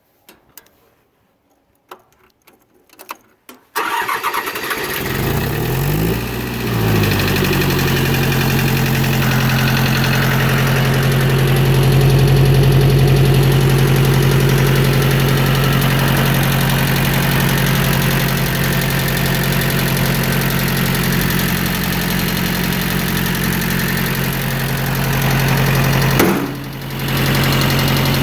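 Mitsubishi D1650 FD compact tractor's four-cylinder diesel engine starting: a few faint clicks, then the engine catches about four seconds in, speeds up briefly and settles into a steady idle. The sound drops out for a moment near the end, then the idle carries on.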